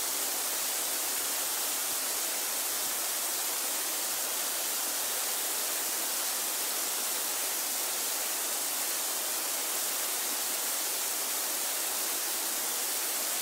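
Waterfall pouring into a pool, a steady rushing hiss of falling water.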